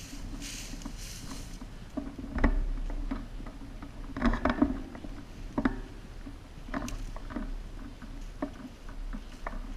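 Irregular clicks, knocks and rustling over a low steady hum: a sharp knock about two and a half seconds in, a quick cluster around the middle, and scattered single clicks after.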